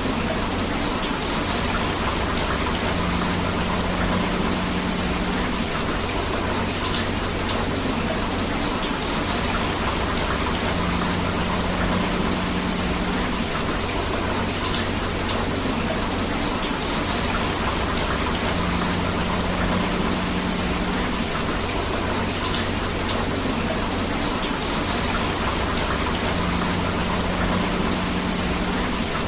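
Steady rain mixed with flowing river water: a dense, even hiss of falling drops and rushing water. A faint low tone comes back about every eight seconds.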